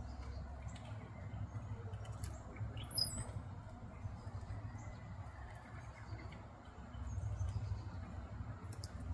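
Faint, high-pitched small-bird chirps, the clearest a little after three seconds, over a low rumble.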